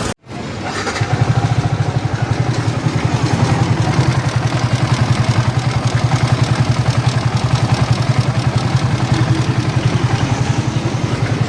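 Yamaha R15 V3's single-cylinder four-stroke engine idling steadily with an even, fast pulsing beat, coming in over the first second.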